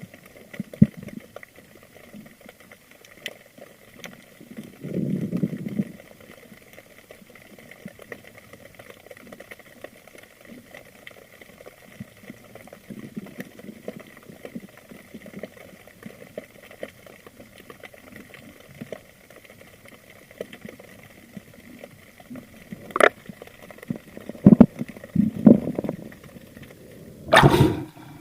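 Underwater recording during a spearfishing dive: a faint steady crackle with low water gurgling, and several louder whooshes of moving water and bubbles near the end.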